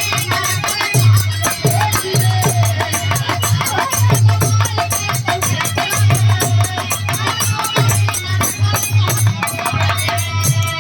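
Instrumental interlude of a Bhojpuri birha folk song: a steady hand-drum beat with jingling, rattling percussion and a melody line over it. Near the end the melody gives way to held, steady chord tones.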